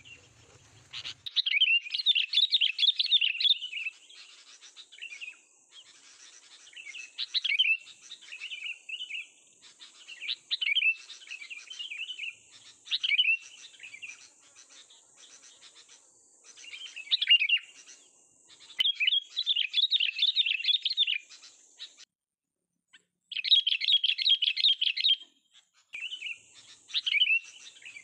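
A young captive songbird singing in rapid, chattering bursts of a second or two each, about nine times with short pauses between.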